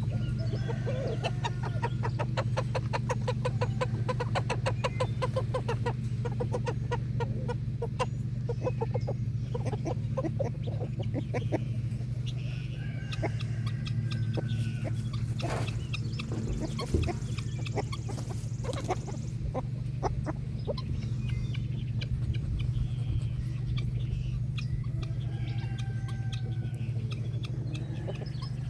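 Chickens clucking, with rapid runs of clucks for the first several seconds and a few short higher calls later, over a steady low hum.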